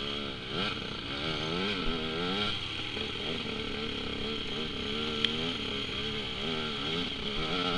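Dirt bike engine revving up and down repeatedly, its pitch rising and falling every second or so as the throttle is worked.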